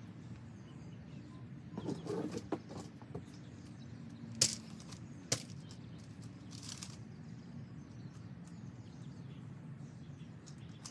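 Handling noises against a faint steady background: rustling about two seconds in, then two sharp clicks or knocks about a second apart, and a brief rustle near the middle.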